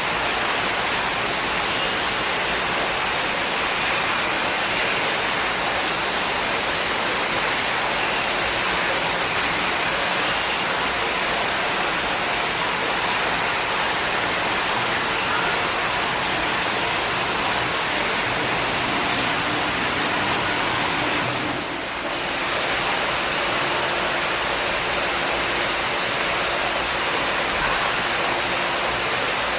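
Steady rushing of falling water, like a waterfall or fountain, that dips briefly about twenty-two seconds in.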